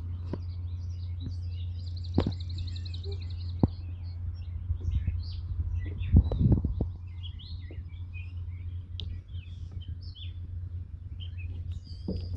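Several wild birds chirping and calling, with a rapid trill about two seconds in. Under them runs a steady low hum, and a few knocks and thumps come through, loudest around six seconds in.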